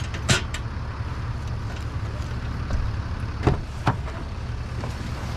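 A vehicle engine idling with a steady low rumble, with four sharp knocks of gear being handled: two in the first half-second and two more about three and a half seconds in.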